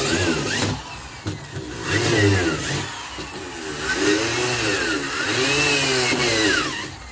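Power drill boring through the wall of an old freezer, its motor whine rising and falling in several runs as the bit binds in the metal and slows.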